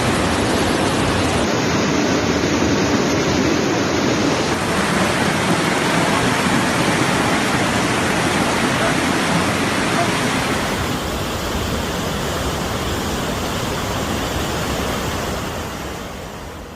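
Loud, steady rush of floodwater and heavy rain running through several cut-together clips, with sharp changes in the noise about one and a half, four and a half and ten seconds in; it fades down near the end.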